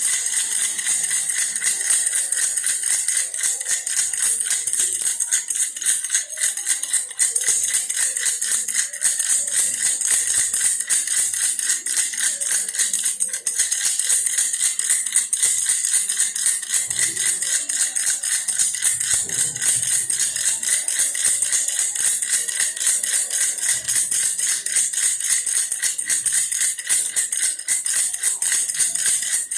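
Toy bear baby rattle shaken continuously, a fast, steady rattling.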